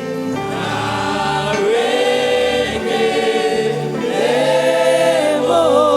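Gospel choir singing long held notes in harmony with vibrato over a band accompaniment, without clear words.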